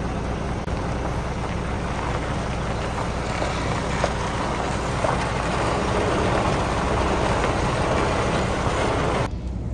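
Truck running along the road: a steady low engine drone with road and wind noise, which cuts off suddenly just before the end.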